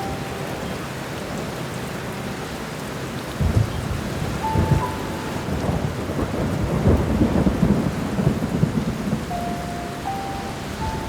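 Steady rain falling, with a thunder rumble that rolls in about three and a half seconds in, crackles for several seconds and fades. A few soft piano notes sound now and then over the rain.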